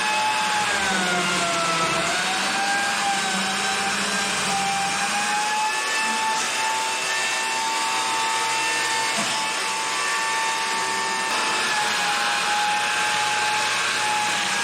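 Light-duty chainsaw on a homemade chainsaw mill, running at full throttle while ripping a log. Its steady high whine dips in pitch about two seconds in as the cut loads it, then recovers, and sags slightly again near the end.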